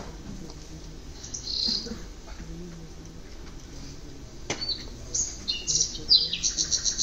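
Bird chirps, then a rapid high trill at about seven chirps a second building up near the end. A single sharp knock comes about four and a half seconds in.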